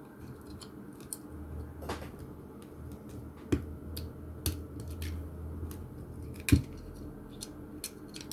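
Irregular small clicks and taps of hand tools and plastic phone parts being handled during smartphone disassembly, with the sharpest click about six and a half seconds in.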